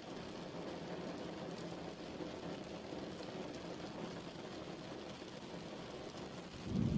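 Steady rain, falling evenly. A low rumble of thunder begins near the end.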